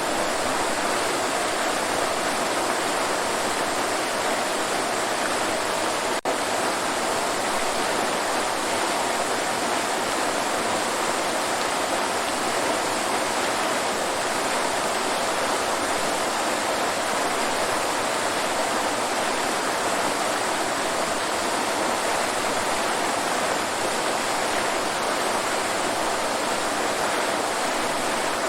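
Waterfall: water falling and rushing in a steady, unbroken roar, with a momentary dropout about six seconds in.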